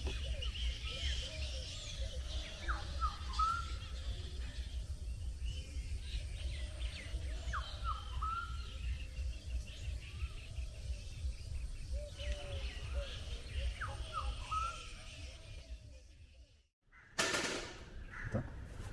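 Several birds chirping and calling, with short chirps and quick falling notes, over a low steady rumble. The sound drops out for a moment near the end and is followed by a short, loud burst of noise.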